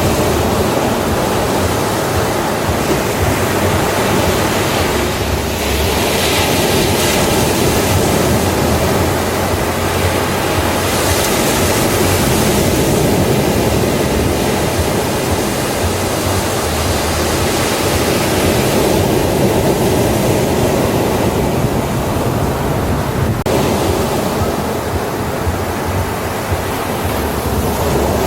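Ocean waves breaking on a beach: a steady wash of surf that swells and eases as the waves come in.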